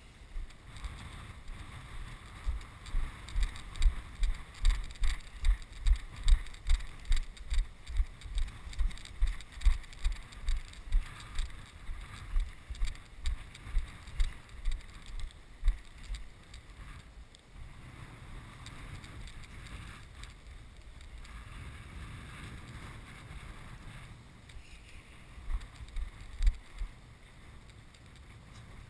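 Footsteps through an alfalfa field, low thumps at about two a second that fade out past the middle and return briefly near the end, under steady wind noise on the microphone.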